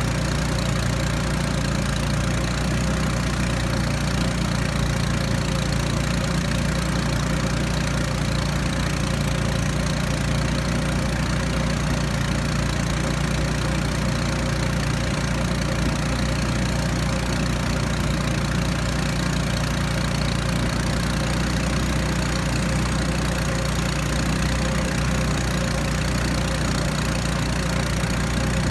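Small outboard motor of a river raft running steadily at constant speed.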